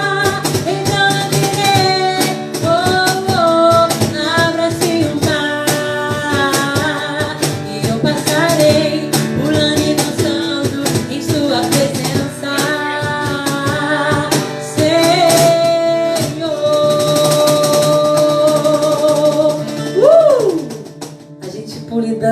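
Worship song sung live in Portuguese by singers with band accompaniment, with guitar and steady shaken and struck percussion. Near the end a long held note gives way to a sliding vocal flourish, and the music drops away as the song ends.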